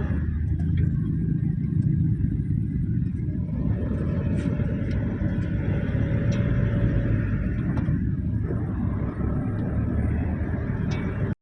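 Road vehicle driving on a highway: a steady low rumble of engine and tyre noise. A faint steady whine joins in for a few seconds in the middle.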